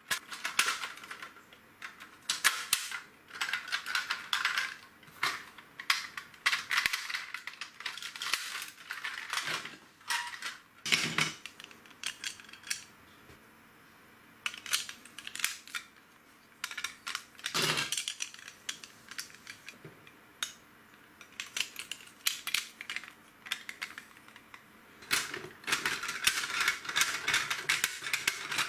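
Plastic LEGO bricks clicking and rattling as pieces are handled and snapped together: many sharp clicks in irregular clusters, with short pauses between them.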